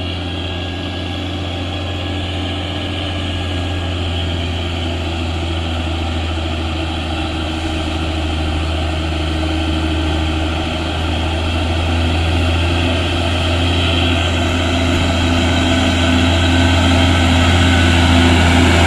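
Heavy truck engine running steadily with a low hum, growing gradually louder as it approaches.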